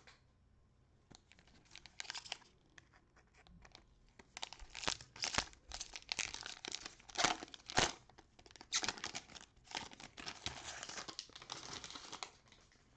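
Cellophane wrapper of a Prizm trading-card cello pack being crinkled and torn open, in irregular spells of rustling with a few sharper crackles.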